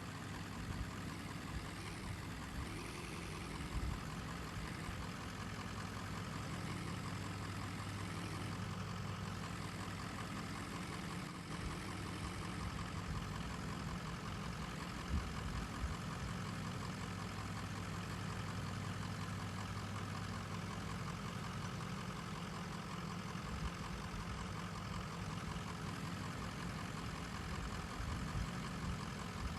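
Heavy construction machine's diesel engine running steadily at a low, even speed, with a few brief knocks.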